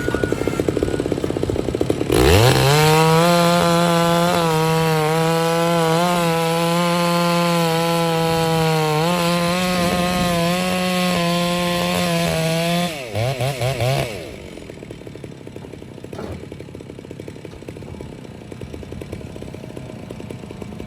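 Stihl two-stroke chainsaw revving up sharply about two seconds in and held at full throttle cutting through wood for about eleven seconds, its pitch dipping slightly now and then. It then blips a few times and drops back to a low rumble for the rest.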